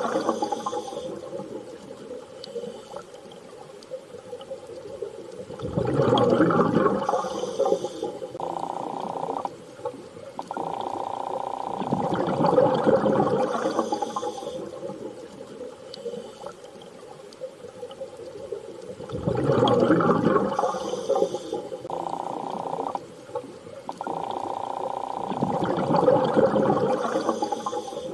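Underwater ambience: slow washes of water swelling and fading every six or seven seconds over steady humming tones, repeating as a loop.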